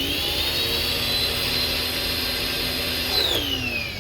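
Portland electric pressure washer's motor and pump running steadily with a high whine as water sprays through the black nozzle, then shutting off about three seconds in, the whine falling in pitch as the motor winds down.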